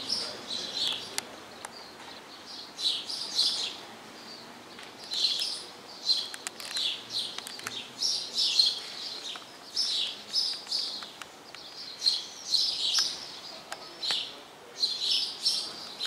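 Birds in the trees chirping: short clusters of high chirps come again and again, about one cluster every second or two, with brief pauses between.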